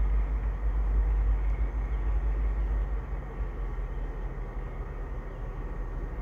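Low, steady rumble of a New Jersey Transit Comet V commuter train far down the line, dropping off noticeably about three seconds in.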